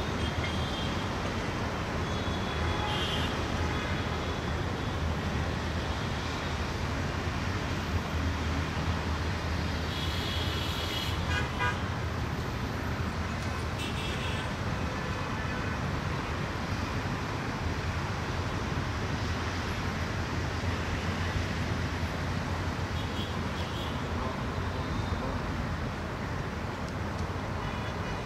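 Steady rumble of a diesel-hauled passenger train running away along the track, with a few short horn toots, the clearest about a third of the way in.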